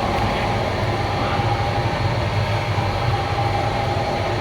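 Steady running rumble of a moving passenger train heard from inside an air-conditioned coach, with the even hum of the coach's air conditioning.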